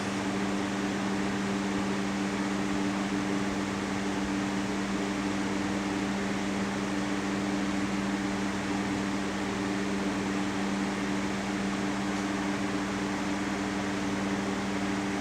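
Electric fan running steadily on high speed: an even rush of air with a steady low motor hum.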